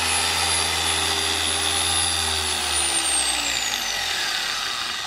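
Electric car polisher running steadily, then switched off about two seconds in and left on the paint to spin down, its whine falling in pitch as it slows.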